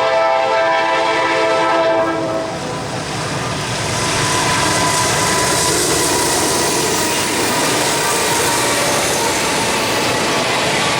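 A train sounds a warning chord of several notes at once, which stops about two and a half seconds in. Then comes the steady rumble and clatter of the train's wheels as it passes close by.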